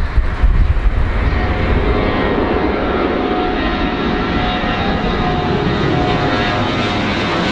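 Passenger airliner's engines running as it comes in to land: a steady rushing noise with a thin whine on top, the higher sound growing stronger towards the end as the plane draws closer.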